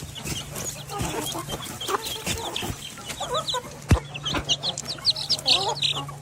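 Birds calling: many short, high chirps with lower, curving clucking calls, over a steady low hum.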